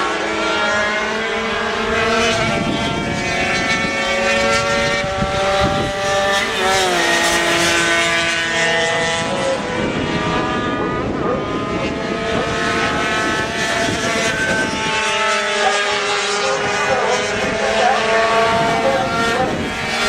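Several racing motorcycle engines running at high revs together, their pitches rising and falling and overlapping as the bikes accelerate, change gear and pass.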